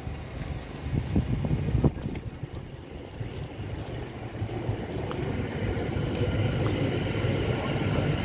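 Electric multiple-unit passenger train running past on the line, its steady rumble and hiss building from about halfway and staying loud. Wind buffets the microphone in the first couple of seconds.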